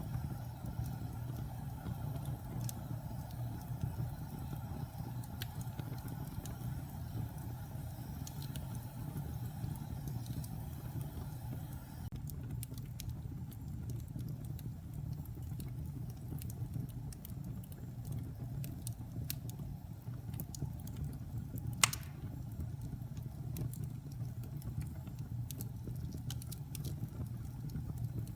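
Wood fire burning in a fireplace: a steady low rumble of flame with scattered small crackles, and one louder pop about three-quarters of the way through.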